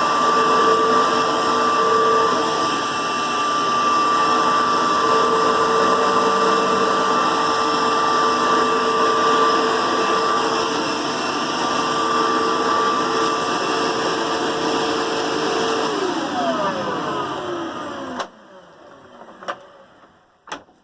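2004 Dirt Devil Featherlite vacuum cleaner's motor running loud with a steady whine. About sixteen seconds in it is switched off: the whine falls in pitch as the motor winds down, and the sound dies away a couple of seconds later.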